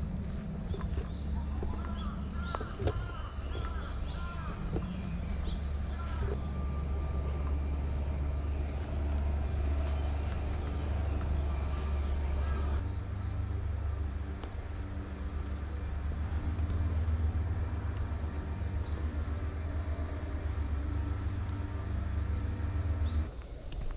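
Outdoor park ambience: insects trill steadily and high over a low rumble, with a few crow caws early on. The background changes abruptly about six and about thirteen seconds in.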